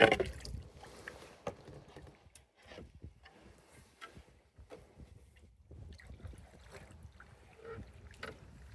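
Canoe on the lake water: water trickling and sloshing around the hull and paddle, with scattered knocks on the canoe, the loudest a sharp knock at the very start.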